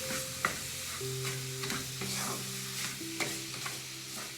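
Spoon stirring vermicelli cooking in ghee and condensed milk in a pan on the flame: a steady sizzle with a few sharp scrapes of the spoon against the pan. Soft background music with long held notes plays underneath.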